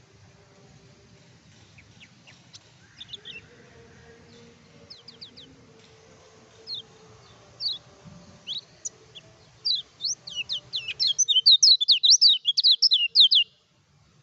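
Kecial kuning, a small white-eye songbird, calling: scattered thin high chirps that grow more frequent, then break into a fast, loud chattering run of sharp notes near the end that cuts off abruptly.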